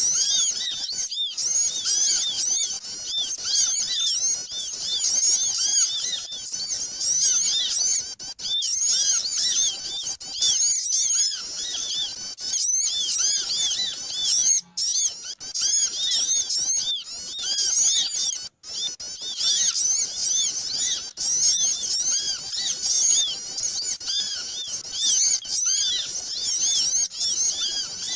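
A dense, noisy chorus of many small birds chirping at once, with quick high-pitched notes overlapping without pause. It is a bird-lure (pikat) recording made to call small birds in, and it breaks off twice for a split second near the middle.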